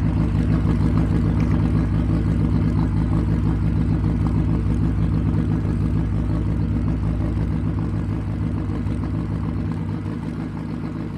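Nissan Stagea's RB25DET turbocharged straight-six idling with Haltech rotational idle ("ghost cam") using the ignition-cut method, idle valve at 99%: the ECU cuts ignition so the idle rises and drops in a rhythmic lump, heard at the tailpipe.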